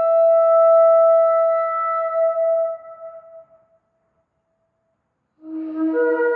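Shofar blast: a long steady note that weakens and dies away about three seconds in. After a short silence a new blast begins on a low note and jumps up to a higher one near the end.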